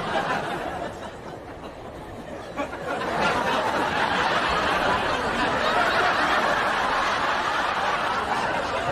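Studio audience laughing, swelling up about three seconds in and carrying on for several seconds before easing off near the end.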